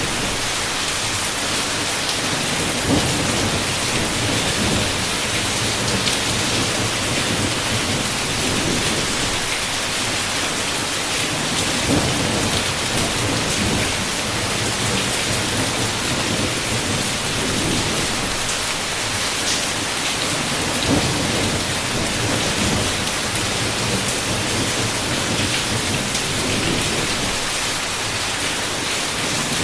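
Heavy rain falling steadily, with low thunder rumbling on and off beneath it.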